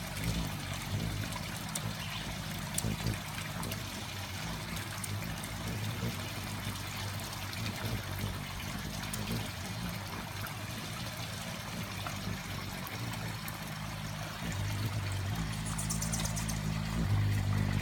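Steady trickling, water-like noise with a low hum that comes and goes, growing louder in the last few seconds.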